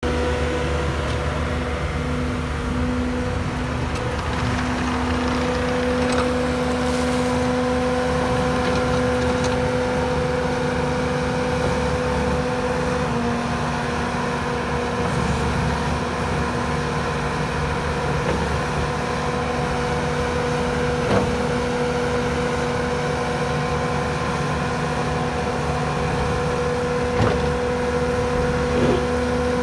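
Bobcat T650 skid steer's Kubota 3.3-litre diesel engine running at a steady speed, with a steady tone that shifts slightly in pitch a couple of times and a few short clicks in the second half.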